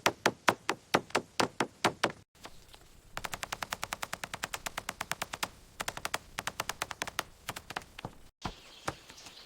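Rapid, evenly spaced knocks of a tool striking wood, sped up in timelapse: about four strikes a second at first, then, after a brief gap, a faster, lighter run of about eight a second that breaks off near the end.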